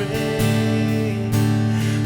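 Acoustic guitar strumming and letting chords ring in a slow worship song between sung lines, with fresh strums about half a second in and again near the middle.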